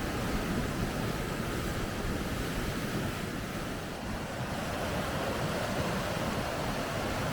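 Steady rushing of water over river rapids, an even noise with no breaks.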